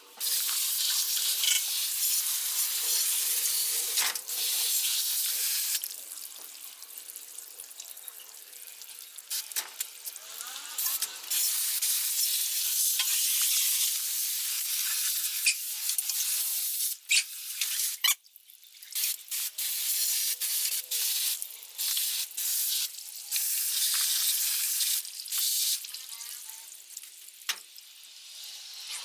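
Hissing spray switching on and off, in long stretches and short bursts, with a few sharp clicks about two-thirds of the way through.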